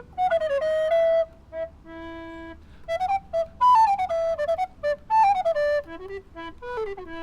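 Solo recorder playing a quick, ornamented melody in running notes, broken by a few brief held notes, including two lower ones near the end.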